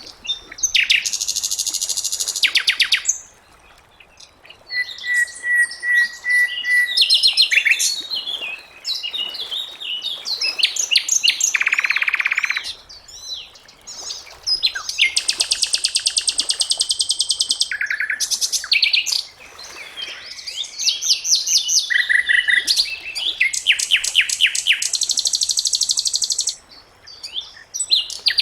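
Sikatan londo singing: phrases of fast, dense high trills and chattering notes, broken by short pauses, with a thin steady whistle held for about two seconds around five seconds in.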